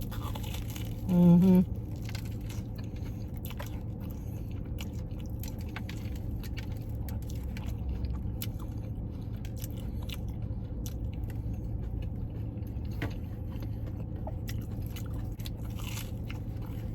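Close-up chewing of a crunchy fried Korean corn dog with a cheese filling: many small crisp crunches and mouth sounds. A short hummed "mm-hmm" comes about a second in, and a steady low hum runs underneath.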